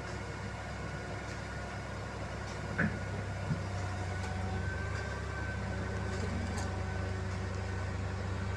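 A large machine's engine running steadily with a faint whine, with two short knocks about three seconds in.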